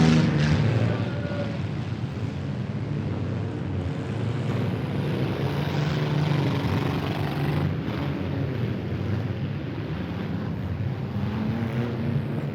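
Engines of several demolition-derby mini vans, mini trucks and SUVs running and revving together in a steady drone that swells and eases.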